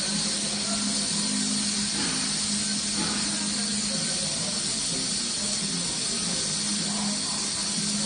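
TIG welding arc burning steadily: an even hiss with a low hum underneath.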